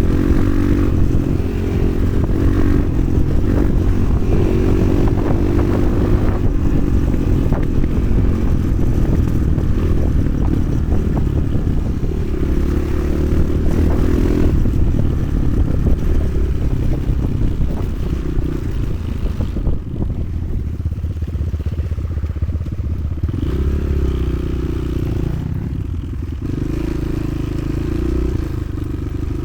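Motoland XR 300 Lite enduro motorcycle engine running as it is ridden, the revs rising and falling, with frequent rattles and knocks over rough ground.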